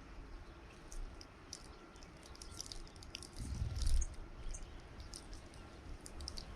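Small songbirds at a feeder giving short, high chirps scattered throughout, with a low rumble about three and a half seconds in.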